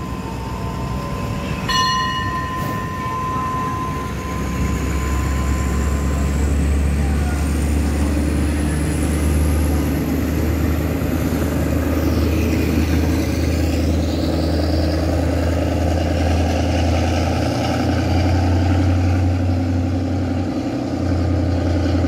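Diesel-hauled passenger train pulling out and its coaches passing close by, with a steady low drone from about four seconds in. A steady high tone sounds in the first few seconds, with a sharp clank about two seconds in.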